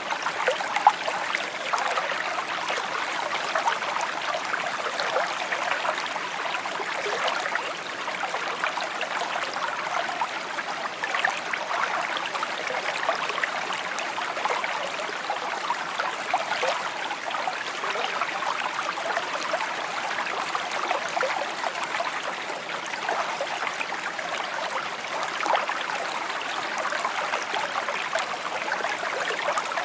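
Shallow stream flowing steadily over stones, a continuous trickling and babbling with no let-up.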